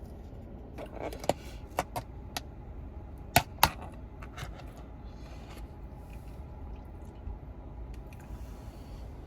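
A run of short, sharp clicks and taps, like small hard objects being handled, with two louder knocks about three and a half seconds in, over a steady low rumble.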